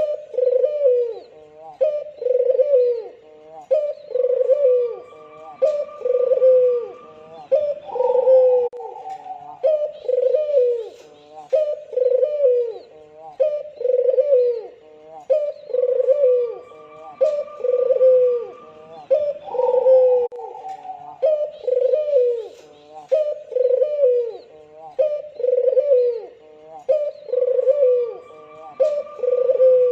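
Albino puter dove (white Barbary dove) cooing over and over, about one coo a second, with a higher held note joining in now and then.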